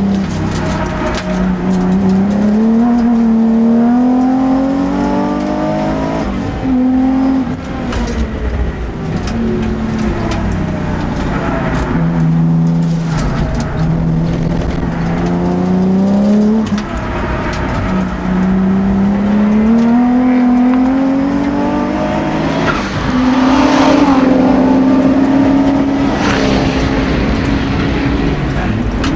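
Twin-turbo race car engine heard from on board at full throttle around a track, its pitch climbing under acceleration and dropping back several times for gear changes and corners. A faint high whistle comes in during some of the pulls.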